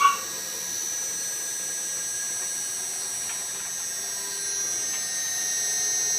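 Hitachi 3-ton floor-standing inverter air conditioner running, its compressor and fan motors working: a steady mechanical hum with high whining tones, getting a little louder near the end.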